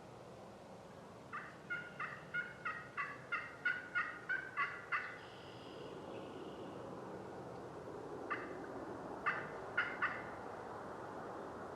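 Turkey yelping: a run of about a dozen evenly spaced yelps, roughly three a second, then a few more scattered yelps near the end.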